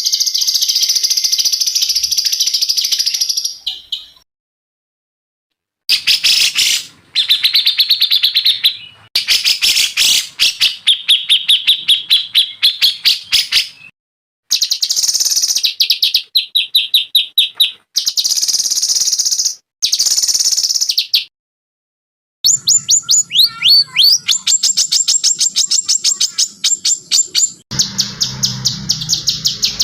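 Songbird song from a masteran training recording: loud, high, rapid trills and quickly repeated notes, in several separate recordings spliced together with abrupt short silences between them.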